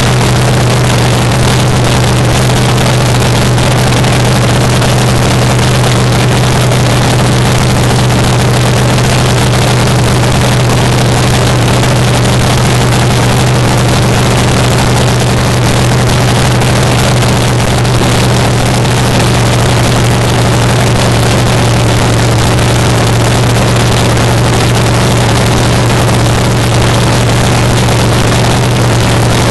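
Engine of a 1949 Fiat fuel altered drag car idling steadily on open headers in a cacklefest run, a loud, even cackle with no revving.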